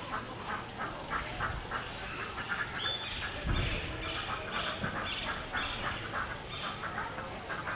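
Birds calling, many short calls in quick succession, with a brief low rumble about three and a half seconds in.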